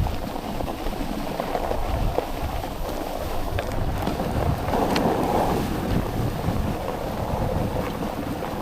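Steady rushing of wind buffeting the microphone, with a few faint clicks.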